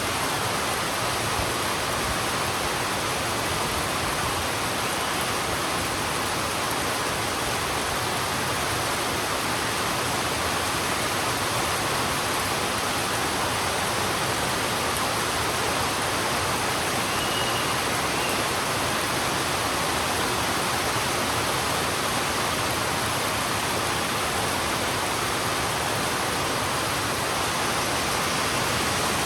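Heavy rain falling steadily on a road, a dense, even hiss that holds constant throughout.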